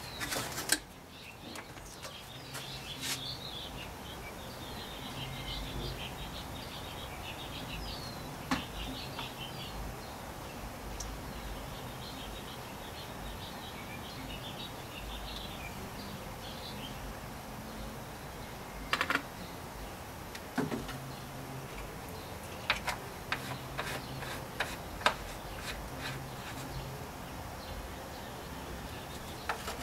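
Small birds chirping over steady background noise, with scattered sharp knocks and clicks, more of them in the second half.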